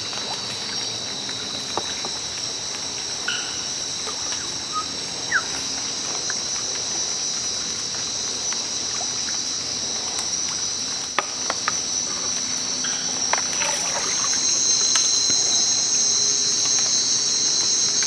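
Amazon rainforest insect chorus, a steady high-pitched drone that grows louder about fourteen seconds in, over faint trickling water.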